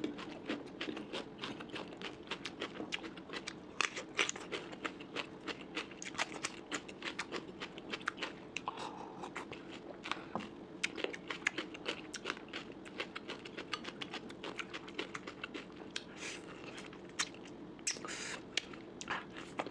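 Close-up eating sounds: wet chewing with frequent small crunches and clicks at an irregular pace, as bony fish head and curry with rice are chewed.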